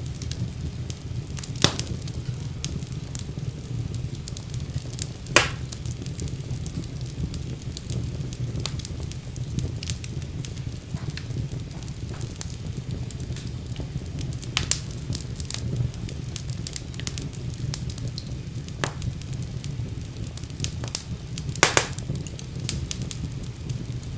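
Wood fire burning in a fireplace: a steady low rumble of flame with scattered sharp crackles and pops, a few of them louder.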